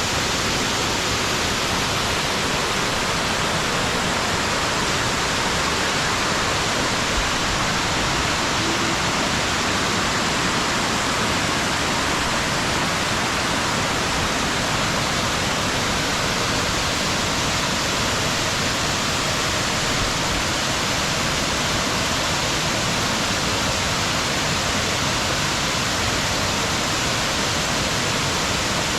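Small waterfall pouring steadily into a pool: an even, unbroken rush of falling water.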